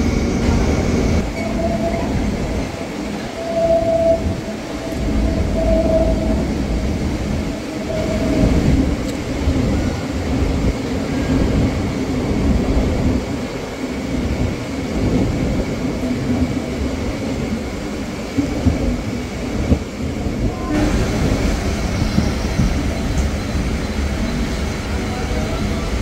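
Suburban electric train running on the rails, a steady low rumble heard from inside the carriage, with a few short high tones in the first eight seconds.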